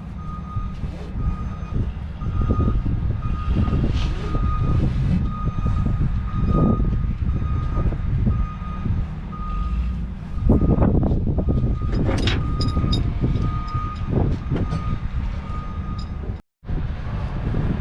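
Truck backup alarm beeping steadily over a running truck engine, with metallic clanks and rattles about ten to thirteen seconds in.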